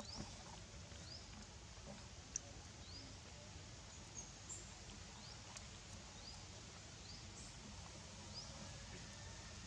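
Faint, short, high chirps, each rising quickly in pitch, repeating roughly once a second over a low background hiss, with a few soft clicks.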